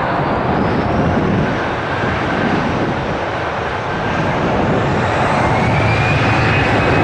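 Airbus A320's CFM56 jet engines running loud with a whining tone that slowly rises in pitch, growing louder in the second half, as the airliner powers up for take-off.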